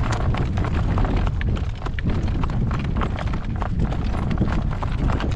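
Hooves of a horse pulling a cart, clip-clopping along the road in a quick run of irregular strikes over a steady low rumble.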